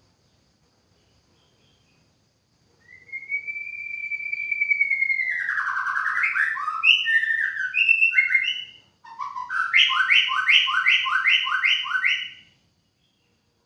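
White-rumped shama singing: a long clear whistle that falls in pitch, a few varied short notes, then after a brief break a quick run of about seven repeated notes.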